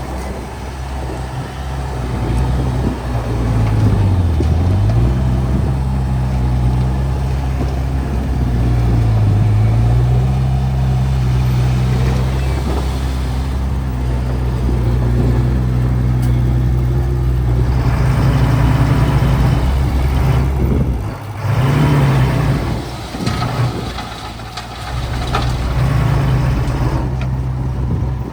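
Heavy earthmoving machine's diesel engine running hard under load. Its pitch sags and recovers twice in the first ten seconds, and the sound drops and swells several times in the second half.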